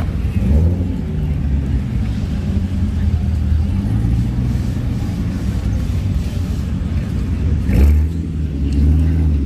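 Car engines running with a steady low rumble. An engine revs up and eases off about half a second in, and again near the end, where the rise is loudest.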